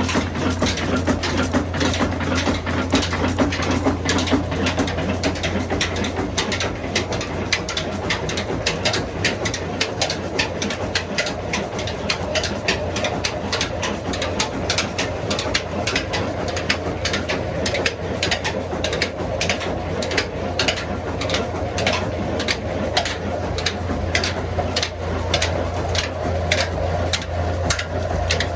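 Old Ruston diesel engine running steadily at slow speed, a constant low hum with regular mechanical clicking a few times a second from its moving parts.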